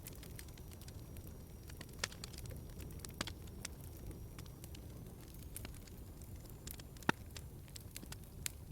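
Wood fire in a fireplace crackling, with scattered sharp pops over a steady low rumble of the flames; the loudest pop comes about seven seconds in.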